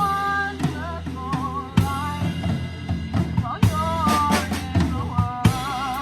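Live band music with the drum kit up front: kick, snare and cymbal hits, with a sharp accent about every two seconds. A held, wavering melody line plays over the drums.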